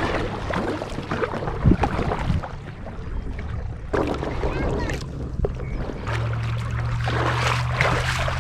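Water splashing and knocking around a kayak, with irregular sharp knocks in the first couple of seconds; wind rumbles steadily on the microphone from about six seconds in.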